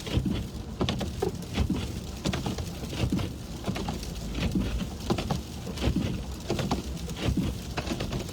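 Sleet and freezing rain pattering on the car's windshield and roof as irregular ticks, over the low rumble of the car driving on a snowy road.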